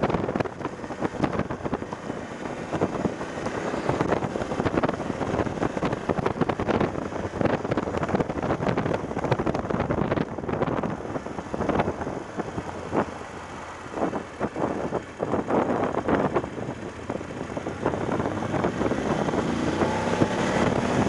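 Heavy wind buffeting on an action camera's microphone while riding a BMW F750GS motorcycle, with the bike's parallel-twin engine running underneath. The wind eases briefly about two-thirds of the way through, and the engine pitch rises near the end as the bike accelerates.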